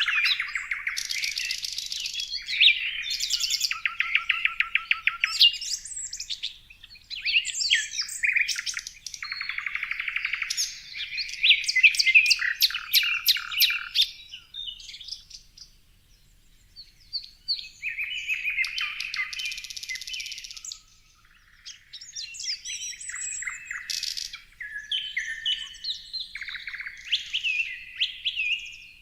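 Birds singing and chirping: a busy mix of varied whistled phrases and fast rattling trills, with a couple of short lulls partway through.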